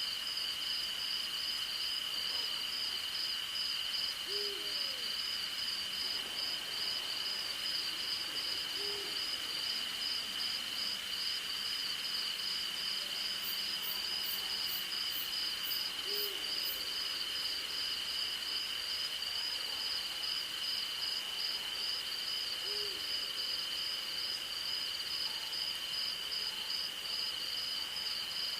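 Night insect chorus of a steady high trill and a rapidly pulsing cricket chirp, with an owl giving a short low hoot four times, several seconds apart.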